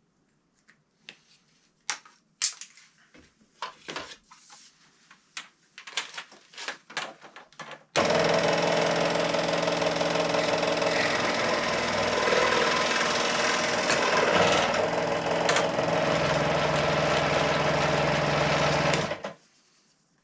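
A few light knocks and clicks of handling, then a power tool starts abruptly about eight seconds in and runs steadily for about eleven seconds, cutting a length of pipe, before stopping abruptly.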